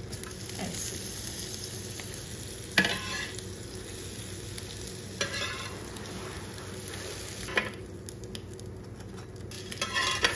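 Buttered bread sandwiches sizzling on a hot grill pan, while a metal slotted spatula scrapes under them and knocks against the pan a few times as they are flipped and lifted off. The sizzle thins out near the end as the pan empties.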